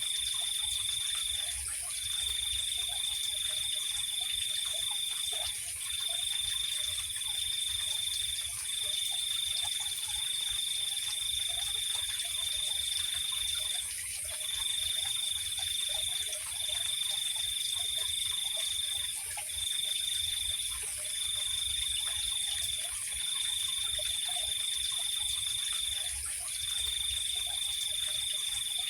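Night insect chorus: a cricket trilling on one high pitch in long runs, broken by short pauses every few seconds, over a steady higher-pitched insect hum.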